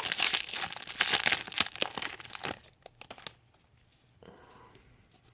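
A trading card pack wrapper being torn open and crinkled in the hands, stopping about two and a half seconds in, followed by a few faint clicks.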